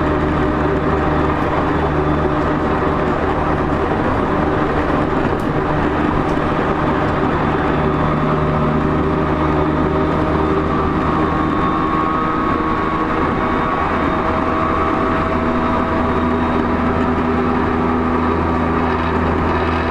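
Running sound heard inside the motor car of a JR East E231-0 series commuter train travelling between stations. It is a loud, steady rumble with a hum of steady tones, some of which shift in pitch about two-thirds of the way through.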